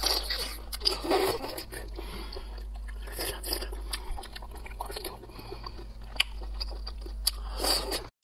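Close-miked mouth sounds of a person biting and chewing large sea snail meat: irregular wet smacks and small clicks, over a steady low hum.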